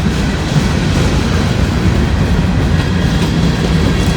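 Freight cars of a long CSX manifest train rolling past at track speed, a steady heavy rumble with wheels clacking over the rail.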